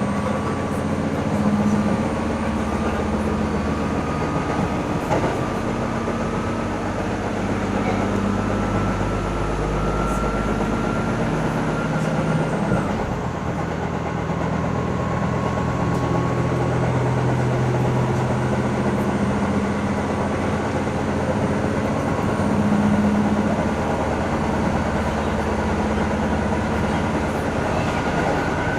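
Running sound heard from inside a KiHa E120 diesel railcar: its DMF15HZ six-cylinder diesel engine drones steadily under the floor over the noise of wheels on rail, with a change in the engine note about halfway through.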